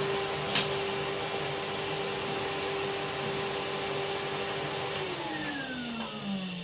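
Vacuum cleaner running steadily with a motor whine, one sharp click about half a second in. About five seconds in it is switched off and the motor winds down, its pitch falling.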